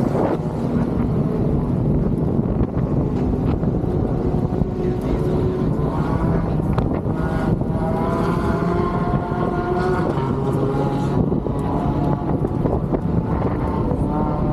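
Wind buffeting the microphone in a steady rumble. From about six to eleven seconds an engine drone rises slightly in pitch over the wind.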